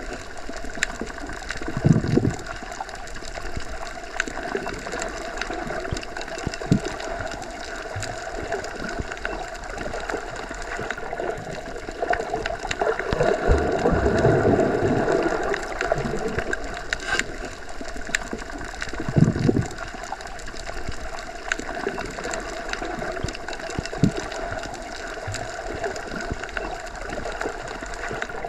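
Underwater ambience heard as if through a hydrophone: a steady watery wash with many small scattered clicks and crackles, and a few short low whooshes of water or bubbles, one swelling louder in the middle.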